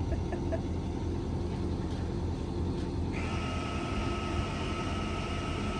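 Cummins diesel engine of a pickup running with a steady low rumble; about three seconds in, a steady whine from the onboard air compressor starts up as it fills the suspension airbags toward 50 psi.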